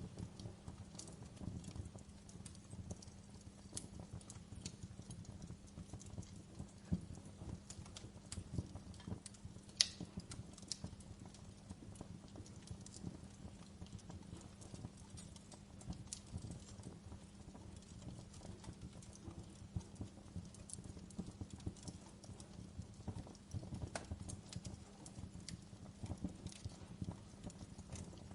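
Wood fire in a fireplace crackling, with irregular pops and snaps over a steady low rumble of the flames; one sharper pop about ten seconds in.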